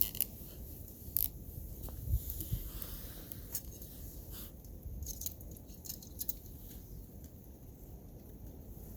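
Scattered small crackles and clicks at irregular intervals over a steady low rumble.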